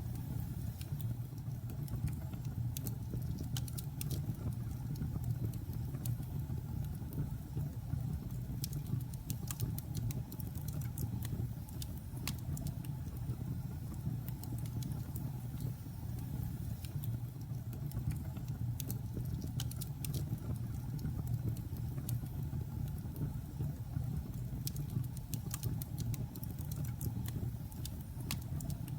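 Wood logs burning in a fireplace: a steady low rumble of the fire with scattered sharp crackles and pops from the burning wood throughout.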